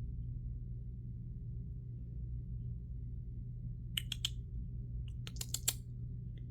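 Steady low hum with two short runs of light clicks and taps: three about four seconds in, then several more between five and six seconds.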